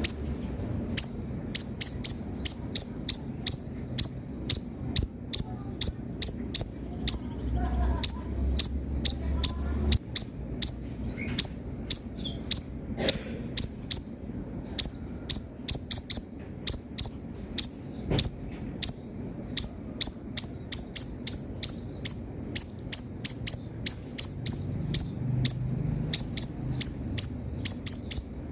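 Kolibri ninja sunbird singing energetically: short, sharp, high-pitched chirps repeated several times a second in quick runs.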